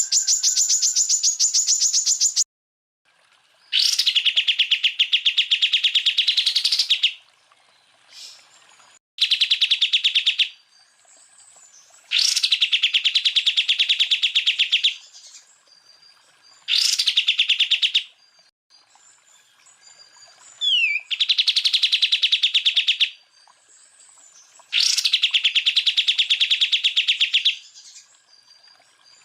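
Cucak ijo (green leafbird) singing a series of rapid machine-gun 'tembakan' trills, seven separate bursts of one to three seconds with short pauses between; the first burst is higher-pitched than the rest, and a quick falling whistle comes near the middle.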